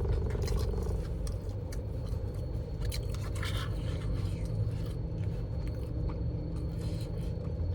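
Eating sounds: a utensil scraping and clicking in a takeout food container, loudest about three seconds in, over a steady low hum.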